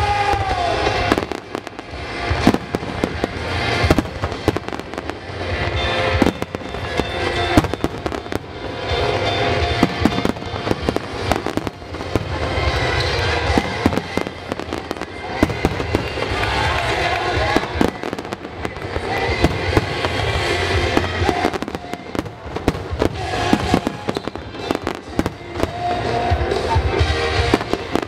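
Dense fireworks barrage of aerial shells bursting, with many sharp bangs in quick succession throughout, over a music soundtrack playing underneath.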